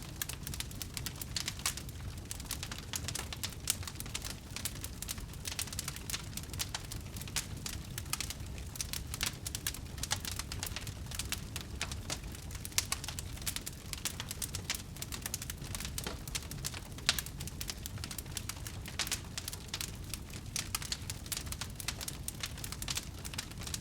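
Wood burning in a bonfire: dense, irregular crackling and small sharp pops over a steady low rumble.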